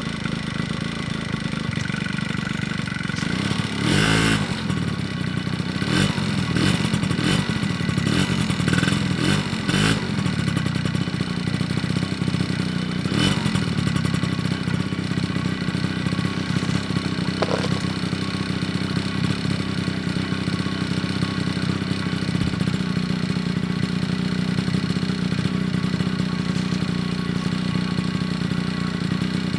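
Honda Spree scooter's small two-stroke engine running through an aftermarket S23 expansion-chamber exhaust, a steady engine note with a cluster of brief sharp louder bursts between about 4 and 10 seconds in.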